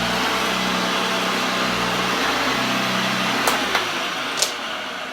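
1968 Hoover Junior 1346 upright vacuum cleaner running with a steady motor drone. Its low hum dies away in the second half as the machine runs down, with three sharp clicks near the end.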